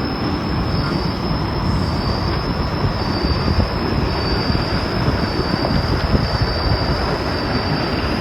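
Wind rumbling on the microphone, with a steady high-pitched whine above it.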